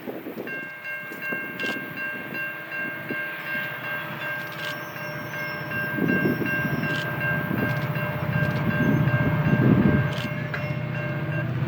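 A train approaching with a steady high-pitched tone held without a break, under a low rumble that grows louder from about six seconds in.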